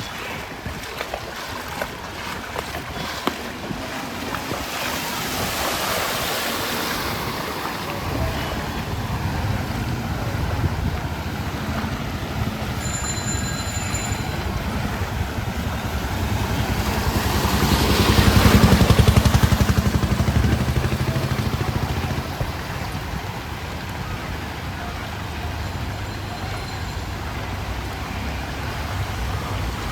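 Street traffic moving through floodwater, with water sloshing and splashing. A motor vehicle's engine hum comes in about a quarter of the way through and swells as it passes close, loudest a little past the middle.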